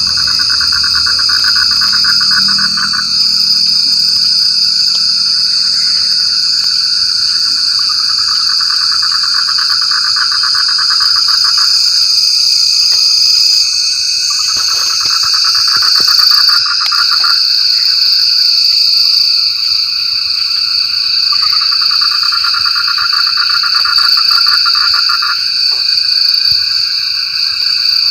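Frogs calling in bouts of rapid pulsed trills, each about three to four seconds long and repeating about five times, over a steady high-pitched insect chorus.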